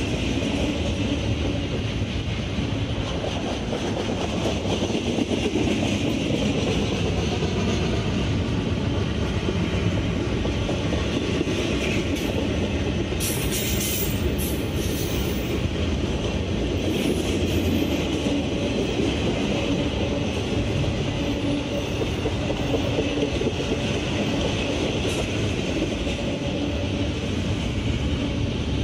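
Double-stack intermodal freight train's container-laden well cars rolling past, with steady wheel-on-rail noise and some clickety-clack.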